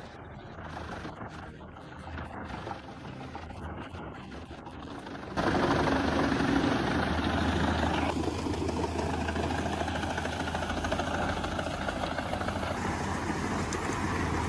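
Quieter mechanical noise, then about five seconds in a sudden jump to a heavy machine's engine running loudly and steadily with a deep, even hum.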